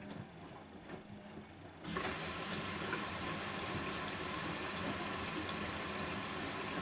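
Bosch WAN28220FF washing machine's water inlet opening about two seconds in: a sudden, steady rush of water filling the machine on a synthetics 40° cycle.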